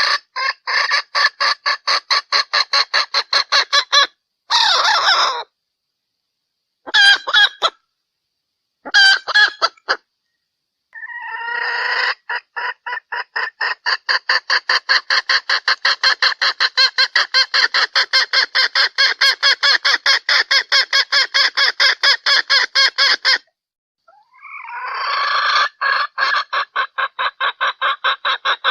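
Junglefowl hen calling in long runs of rapid, evenly repeated clucks, about five a second, a call used to lure males. The runs stop and start abruptly with dead-silent gaps between them.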